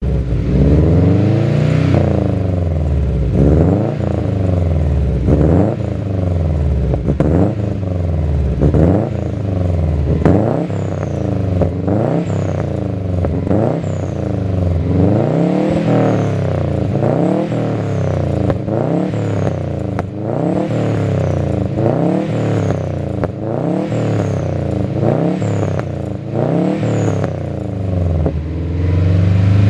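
Turbocharged Subaru WRX flat-four engine being revved through a Skunk2 cat-back exhaust: repeated quick throttle blips, about one every second and a half, each a rise and fall in pitch, many followed by a faint high falling whistle.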